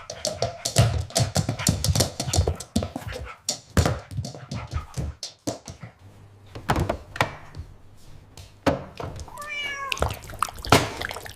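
Repeated light knocks and thumps, with one short, high, wavering whine-like call about nine seconds in.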